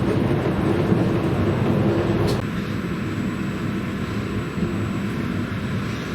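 Regional passenger train running along the track: a steady rumble of wheels and carriage, with a faint tick about two and a half seconds in.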